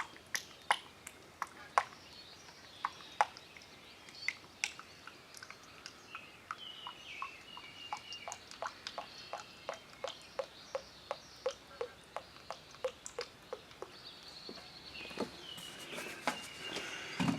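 Motor oil glugging out of a quart bottle into a lawn mower engine's fill neck, a run of short gulping knocks about two or three a second.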